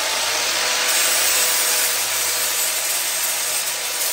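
Angle grinder running against steel, cleaning up fresh welds: a loud, steady grinding hiss with a faint motor whine.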